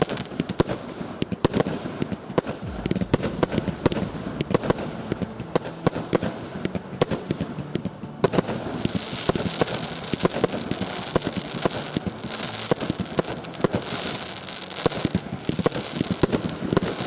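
Multi-shot firework cake of 0.8–1.25 inch calibre firing shot after shot in rapid succession, launches and bursts overlapping. About halfway through, a steady hiss of crackle joins the shots.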